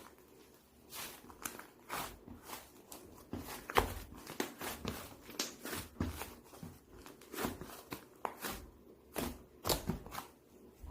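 Irregular soft knocks, taps and rustles, a few a second, with no speech.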